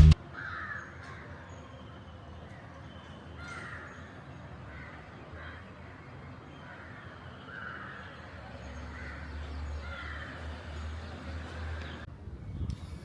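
Birds calling outdoors: short calls repeated about once a second, over a low steady rumble that swells in the second half.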